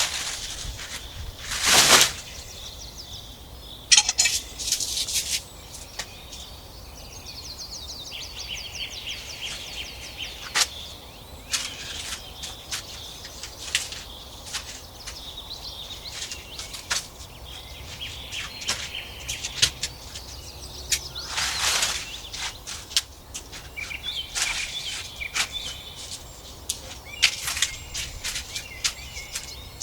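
Birds chirping and trilling, with scattered sharp clicks and snaps throughout.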